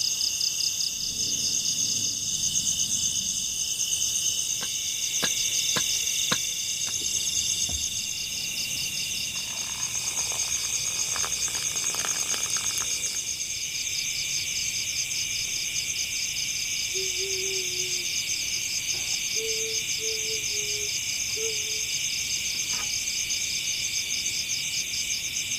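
Forest insect chorus: a dense, steady, shrill pulsing trill of many insects. A few sharp clicks come around five seconds in, and a few short low calls around two thirds of the way through.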